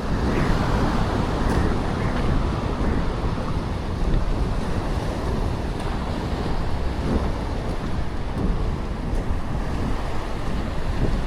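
Sea surf washing on the shore, with wind buffeting the microphone as a steady low rumble.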